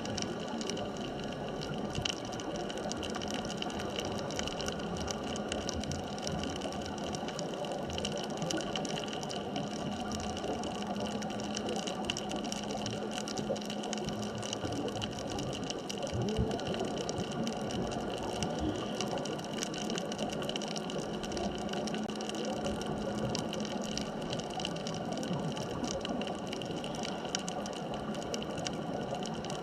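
Underwater ambient noise: a steady hiss with several faint steady tones and a low hum that fades about halfway through.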